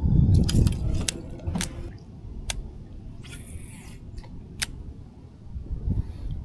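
Handling noise from fishing gear in a kayak: scattered sharp clicks and knocks, with a brief rustle about three seconds in.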